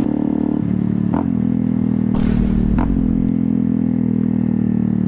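Honda CRF motorcycle engine running under way, its pitch dropping and building again several times as the rider shifts gears. A brief rush of noise comes in about two seconds in and lasts about a second.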